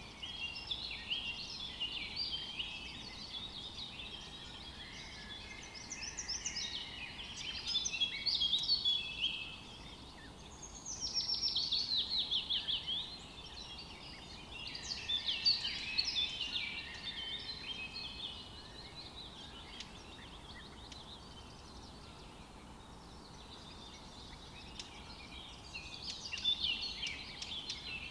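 Several songbirds singing and calling over one another, a dense mix of chirps and short warbled phrases. About ten seconds in, one bird gives a rapid trill of quick notes falling in pitch for a couple of seconds; the singing thins out for several seconds in the latter half before picking up again near the end.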